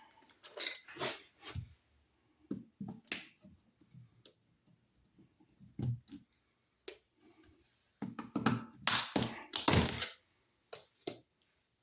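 Clicks, taps and scraping of hand work on a wall receptacle and its box, with a louder run of scrapes and knocks around nine to ten seconds in.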